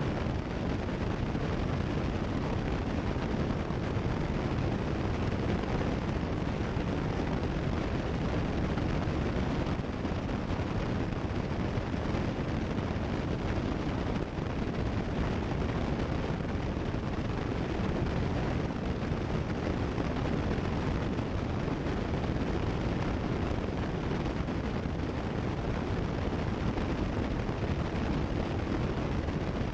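Cessna 172 Skyhawk in cruise flight: a steady, unchanging drone of engine and airflow noise.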